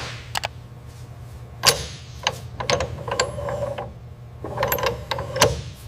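Metal clicks and ratchet-like clanks of an aircraft part being lowered and locked into place, in a few clusters over a steady low machine hum.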